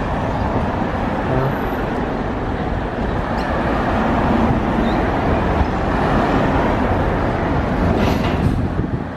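Scania city bus driving past in road traffic: steady engine and tyre noise that grows a little louder midway and eases off near the end.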